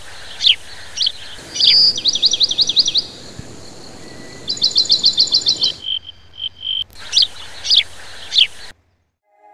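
Birds singing: repeated sharp high chirps with two fast trills of rapid notes and a short steady whistle, cutting off suddenly near the end. Music begins faintly just at the end.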